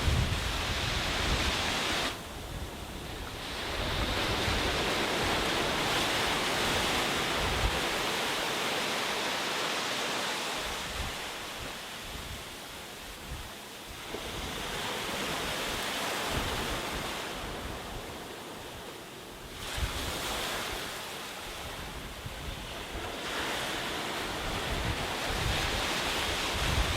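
Sea waves surging and washing on a beach, the surf swelling and falling away in slow cycles of several seconds, twice dropping off suddenly. Wind rumbles on the microphone underneath.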